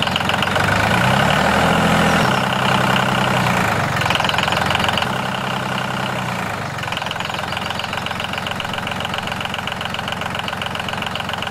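Small electric motor of a DIY model tractor running with a steady, rapid buzz, over background music.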